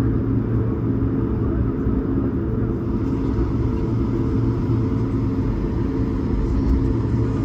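Steady cabin rumble of an Airbus A220-300 in operation, heard from a window seat: the hum of its Pratt & Whitney geared turbofan engines mixed with airflow noise, holding an even level throughout.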